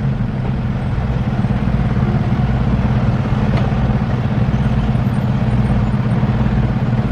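Semi truck's diesel engine running steadily at low revs, heard from inside the cab, a deep even drone.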